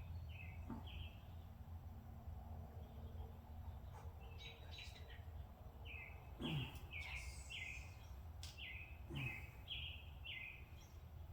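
A bird calling repeatedly in short falling chirps, sparse at first and then about two a second through the second half, over a steady low hum, with a few faint clicks.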